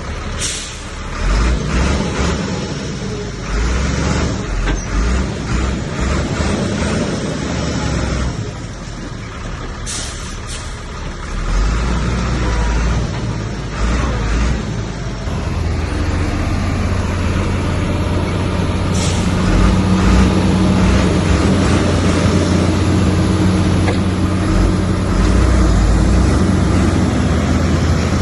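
Heavy diesel earthmoving machinery working: sharp clanks and hissing bursts in the first half, then a steady, louder engine drone from about halfway.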